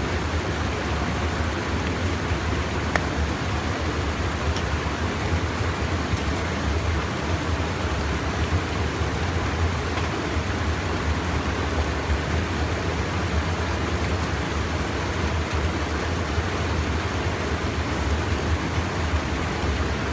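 Steady rushing of a stream's water, with a deep rumble and a few faint ticks about three and five seconds in.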